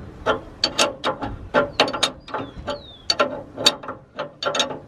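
Hand tools clicking, ratchet-like, with a few sharp metal clicks a second and a brief faint squeak in the middle. This is the nut on the VW Kombi's belt pulley being worked loose so the slack belt can be tightened.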